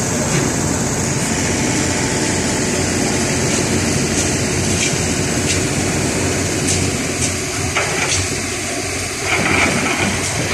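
Heavy machinery engine running steadily, with scattered short clicks and a brief louder noise near the end.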